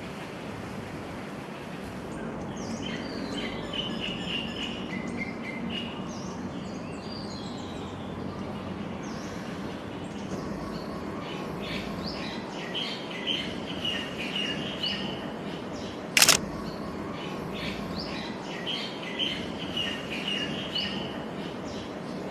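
Small birds chirping in repeated trilled phrases over a steady background hum of ambient noise. A single sharp click stands out about three-quarters of the way through.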